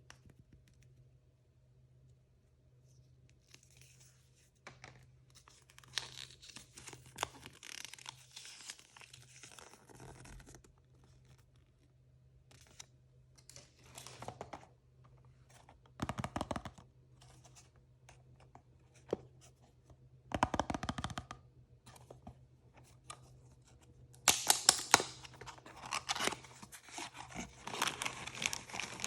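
Packaging of mystery toys being torn open and crinkled by hand, in crackly stretches with pauses between. The rustling starts a few seconds in, comes back in short bursts, and grows denser and loudest near the end.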